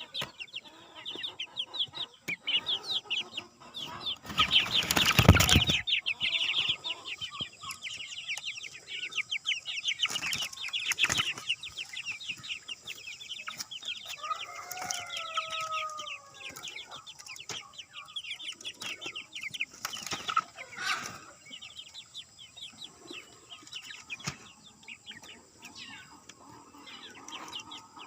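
A brood of chicken chicks cheeping continuously in quick, high peeps. About five seconds in there is a loud rustling burst lasting a second or so, and around fifteen seconds in an adult chicken gives one longer call.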